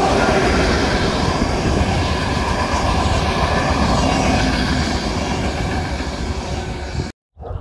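Train passing along the platform, a loud, steady rumble and rush of wheels on rails that eases off slightly, then cuts off abruptly about seven seconds in.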